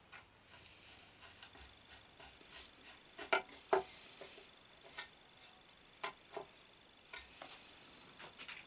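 Small parts being handled and worked by hand: scattered light clicks and knocks, with three spells of high scraping or rubbing and a couple of sharper knocks about three and a half seconds in.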